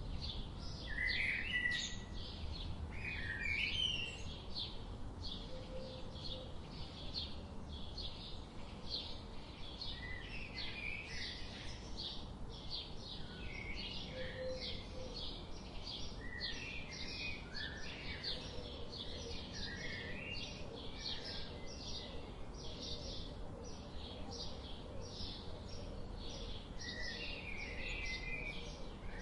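Several songbirds chirping: one keeps up a steady series of short, high chirps about two a second, while others add lower warbled phrases now and then.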